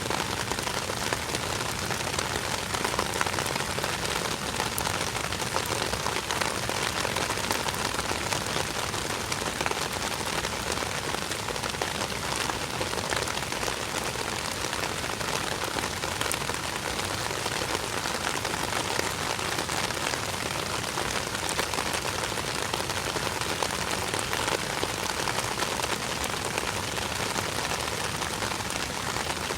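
Steady rain falling and pattering on surfaces, a dense even hiss of many small drop hits that holds level throughout.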